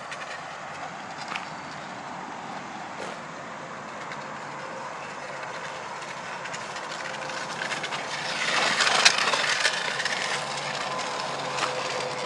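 A crushed drink can pressed against a spinning bicycle tyre, making a rapid clattering buzz meant to imitate a dirt bike. It grows louder about eight seconds in as the bike comes close, then eases a little.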